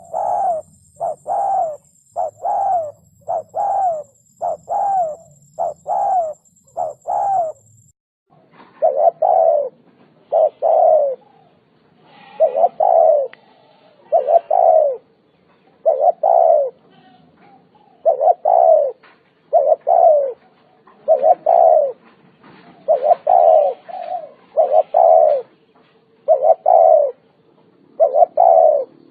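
Spotted dove cooing over and over, a run of low coos in quick succession. About eight seconds in the pattern changes and the coos come in pairs and short groups with brief pauses between.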